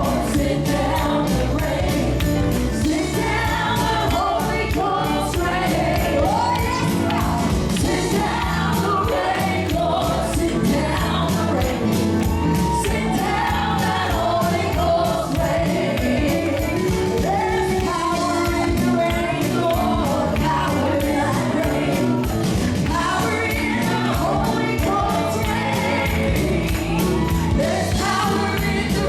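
Gospel worship song: singing over a band with a steady drum beat.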